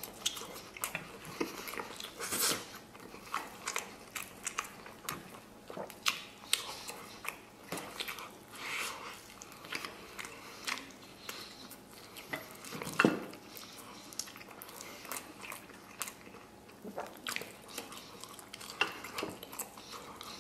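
A man biting and chewing braised beef off the bone close to the microphone: a steady run of short, irregular mouth clicks and smacks, with one louder sound about two-thirds of the way through.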